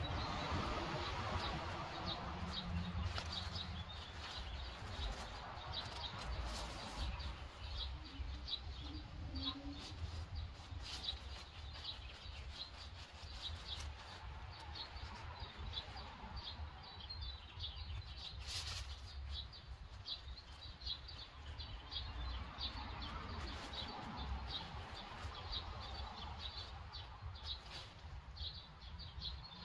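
Small birds chirping over and over, a few chirps a second, with rustling of nylon tent fabric and mesh as a dome tent's inner is hooked onto its poles, over a low steady rumble.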